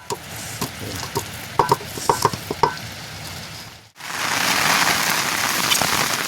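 Steady hissing noise, with a few short high-pitched blips in the first half, that becomes much louder after a sudden cut about four seconds in.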